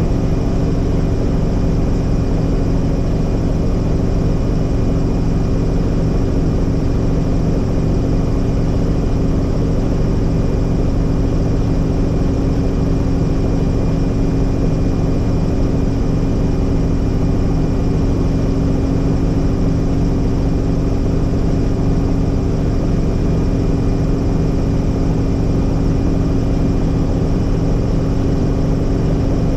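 Tour helicopter in flight: the steady, unchanging drone of its engine and rotor, with several constant tones.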